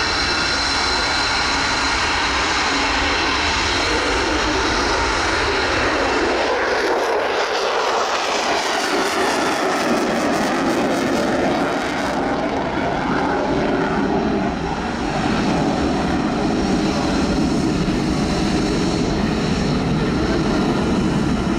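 F-22 Raptor's twin turbofan engines, a loud continuous roar from a jet fighter flying its airshow display, shifting in tone about seven seconds in as it passes.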